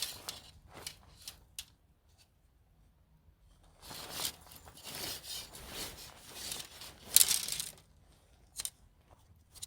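Handling noises: a few light clicks, then rustling and scraping from about four seconds in, loudest near seven seconds, with a last click near the end.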